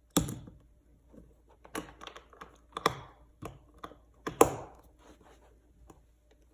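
Scattered clicks and knocks of a lamp's plug and cord being handled and pushed into a new floor outlet receptacle, the loudest just after the start and again about four seconds later.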